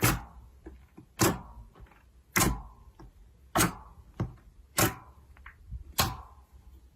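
Slime being pressed and slapped by hand, making six sharp pops at an even pace, about one every second and a bit.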